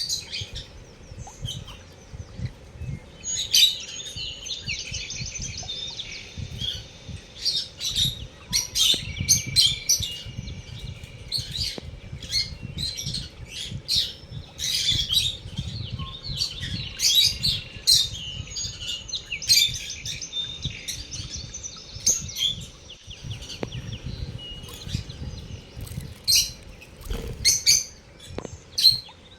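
Lovebirds chirping and chattering: many sharp, high chirps in quick succession, broken by stretches of rapid trilling chatter.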